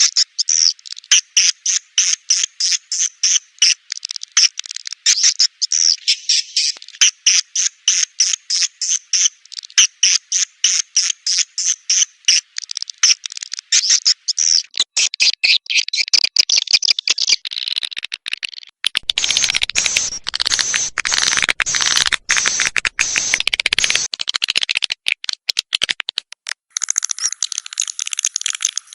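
Swiftlet lure call: a fast, even run of high twittering chirps. About two thirds of the way in it turns into a dense rattling chatter, and near the end into a steady high buzz.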